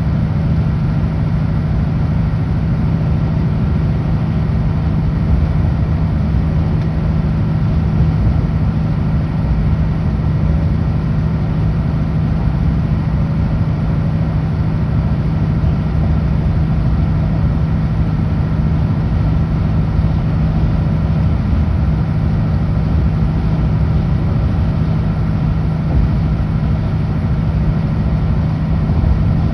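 Kenworth W900L truck driving at highway speed: a steady engine drone with road noise, unchanging throughout.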